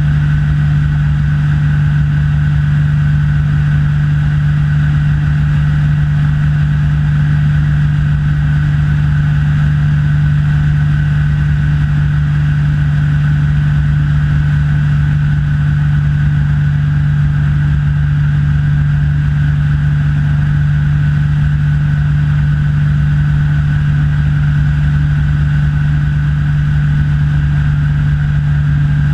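Rans S6 light aircraft's engine and propeller running steadily in cruise flight: a loud, even drone with a strong low tone that does not change.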